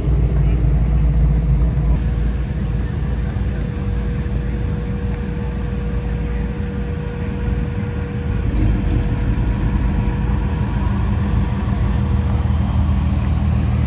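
Car engine running at low revs: a steady low rumble with a faint held tone above it.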